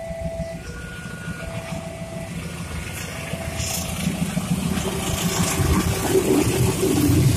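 A train horn sounding in short blasts during the first few seconds, then a low engine rumble that grows steadily louder.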